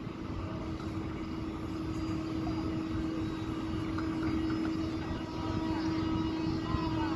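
EP20 dual-system electric locomotive running with a steady electrical hum over a low rumble, growing slowly louder as it starts its train.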